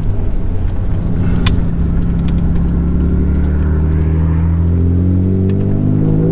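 Alfa Romeo GTV's 3.0 V6 engine pulling under way. It runs at a steady note for a few seconds, then rises in pitch as it accelerates over the last couple of seconds. There is one sharp click about a second and a half in.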